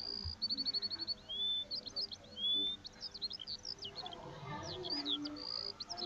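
Birds chirping: many short high whistled chirps, a quick trill of rapid notes just after the start, and a couple of rising whistles.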